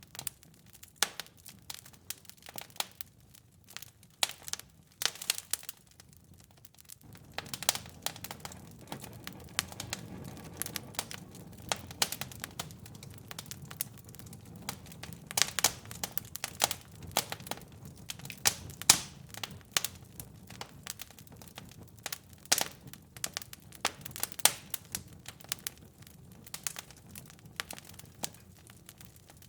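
Wood fire crackling, with irregular sharp pops and snaps. About seven seconds in, a low steady rumble of the fire joins underneath.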